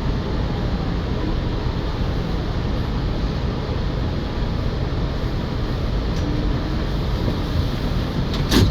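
Steady low rumble and hiss inside an R211A New York City subway car, with one sharp knock near the end.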